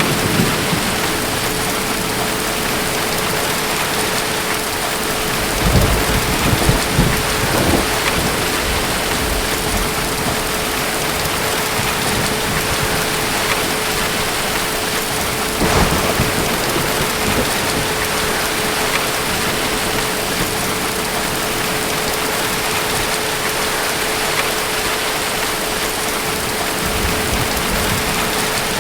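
Steady heavy rain falling, with thunder rumbling twice: a longer rolling rumble a few seconds in and a shorter one about halfway through.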